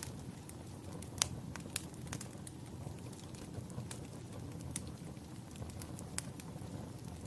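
Wood fire in a fireplace crackling, with a steady low rumble of burning and irregular sharp pops and snaps, a louder pop a little over a second in.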